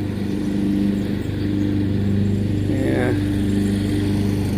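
Riding lawnmower engine running steadily at a constant pitch, a steady low hum.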